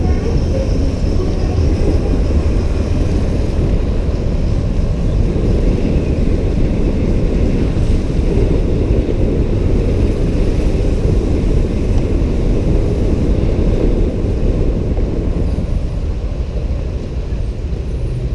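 Steady rumble of wind on the microphone and road noise from riding a motorbike through traffic.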